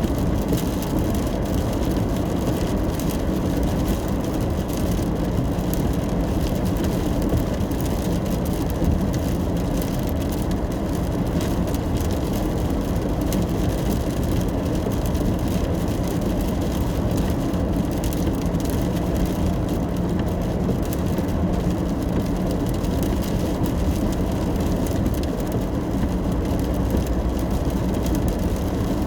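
Steady road and engine noise heard from inside a car driving in the rain: a low rumble of engine and tyres with a fainter hiss of wet road and rain.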